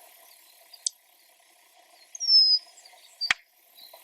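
A bird calls with one loud, clear whistle that falls slightly in pitch and lasts about half a second, a little over two seconds in. Faint short chirps repeat about twice a second behind it, and a sharp click comes near the end.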